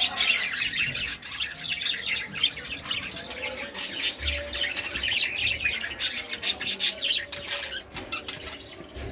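A group of caged budgerigars chattering and squawking, many quick high-pitched calls overlapping without a break.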